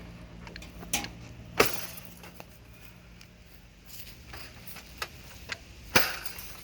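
A few sharp clicks and clanks of hand handling and packaging around an engine being unwrapped, the loudest about a second and a half in and again near the end, over a faint steady hum.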